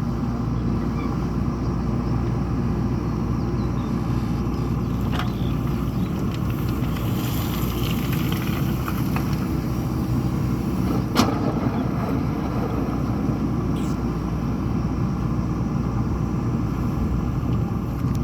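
JCB 3DX backhoe loader's diesel engine running steadily, with one sharp knock a little past the middle.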